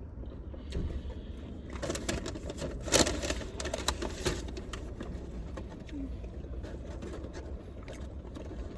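Mouth sounds of eating in a mukbang: chewing, with a cluster of crunches and clicks from about two to four and a half seconds in, over a low steady hum.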